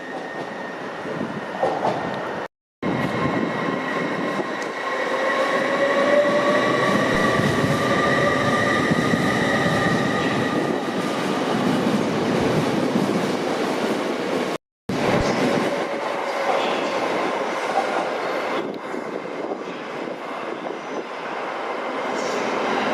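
Passenger train moving through a railway station, with a steady mechanical noise and a whining tone that rises slightly in pitch. The sound cuts out completely for a moment twice.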